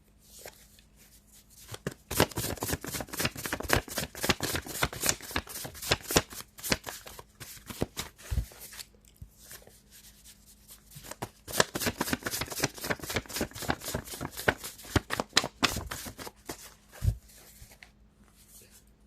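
A deck of tarot cards shuffled by hand: two long runs of rapid card clicks with a short pause between them.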